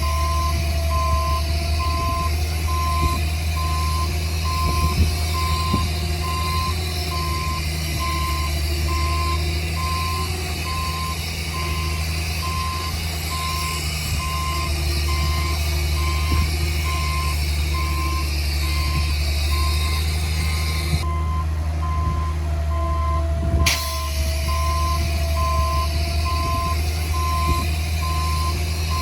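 Reversing alarm on a heavy earthmoving machine beeping in an even, steady rhythm over a diesel engine running under load.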